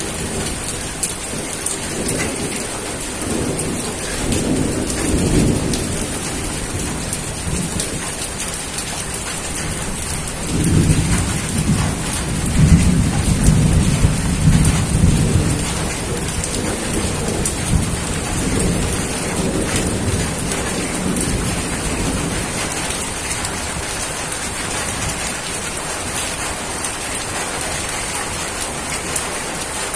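Steady rain falling, with low rumbles of thunder rolling through it, the strongest from about 11 to 16 seconds in.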